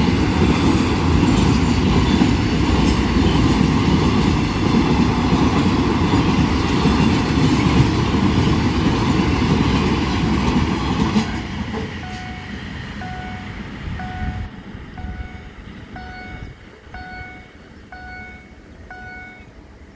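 A passenger train passing close, loud with wheel clatter, until the last car clears about eleven seconds in; it then fades away. As it fades, a warning bell dings steadily about once a second, the pattern of a level-crossing signal.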